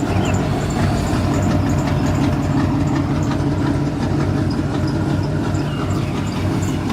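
Pre-1986 crate 350 small-block V8 with headers, straight pipes and a carburetor, idling steadily.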